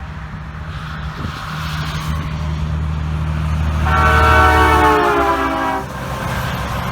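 A semi truck passes with the steady low drone of its engine. About four seconds in it sounds a loud air horn for about two seconds, the horn's pitch sagging slightly as it goes by.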